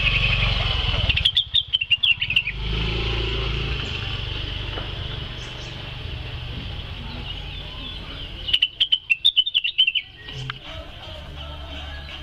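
Blue-winged leafbird (cucak wilis) singing two bursts of rapid, sharp chattering notes, one about a second in and another past the middle, over a steady low hum.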